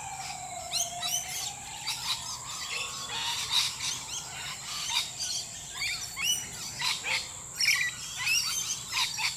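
Dawn chorus of many birds chirping and calling, over a steady high insect hum. A long, smooth tone sinks and then rises again through the first three seconds.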